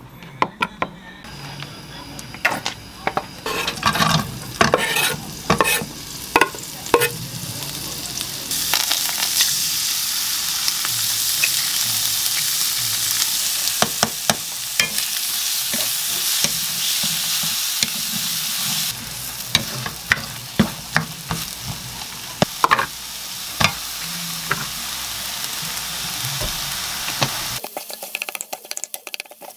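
Egg, sliced sausage and green onion sizzling in a frying pan, stirred and scraped with a wooden spatula, with many sharp taps of utensils against the pan. The sizzle swells about eight seconds in and holds steady for about ten seconds, then drops off abruptly near the end.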